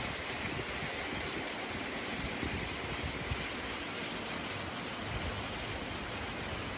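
Heavy rain pouring down in a windy summer storm: a steady hiss, with gusts of wind buffeting the microphone in low rumbles.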